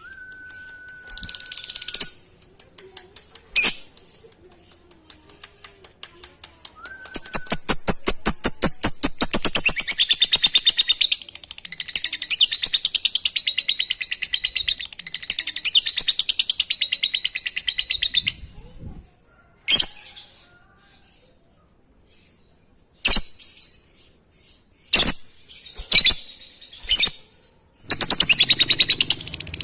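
Lovebird song: a fast run of ticking notes about seven seconds in that runs straight into a long, continuous high chattering trill (the 'ngekek') lasting about ten seconds, followed by a few short sharp calls and another chattering bout near the end.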